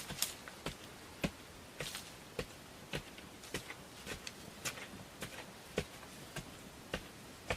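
Short, light knocks repeating at a steady pace, a little under two a second.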